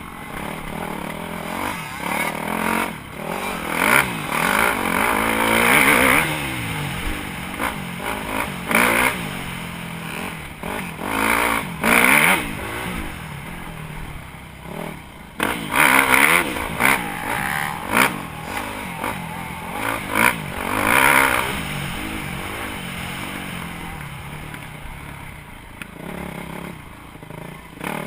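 Dirt bike engine revving up and down while riding, rising and falling repeatedly, with the loudest surges about a third of the way in and around the middle.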